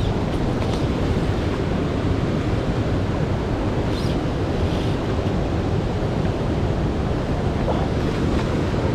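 Steady rushing noise of wind and water, heaviest in the low end, with a few faint brief high ticks about four seconds in.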